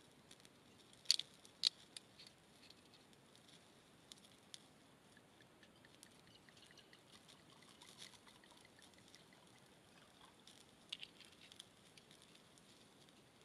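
Wine bottle's screw cap clicking as it is twisted off, about a second in, then wine poured into a stainless steel cup with a faint trickle. A few more small clicks come near the end.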